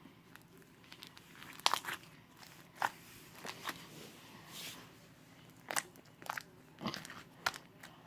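Slime being mixed and pressed by hand, giving off sharp, irregular pops and crackles about a dozen times, with a soft squish between them.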